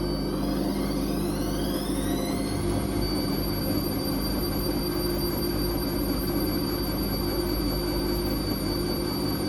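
Whirlpool Indiana 1400 washing machine spinning its drum: the motor's high whine rises in pitch over the first three seconds as the drum speeds up, then holds steady over a constant low rumble.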